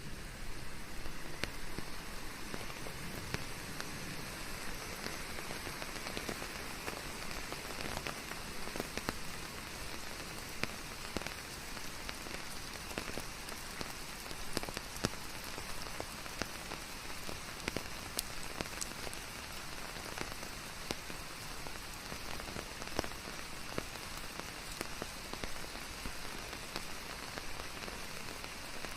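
Steady rain falling on a surface, an even hiss dotted with many separate drop impacts.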